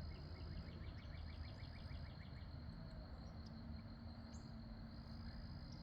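Faint outdoor ambience. A high, steady insect-like buzz cuts in and out, a bird trills rapidly for the first couple of seconds, and a low rumble of distant traffic sits underneath.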